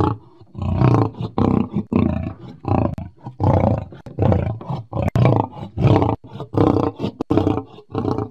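Lion roaring: a rhythmic series of short, deep roars, about one and a half a second.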